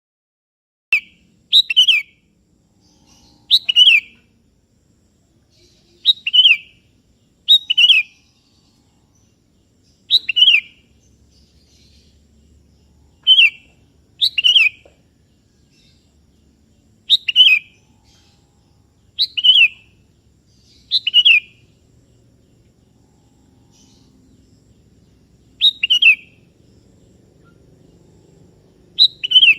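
Sooty-headed bulbul (kutilang) in active song: short, bright phrases, often two notes in quick succession, repeated every two to three seconds.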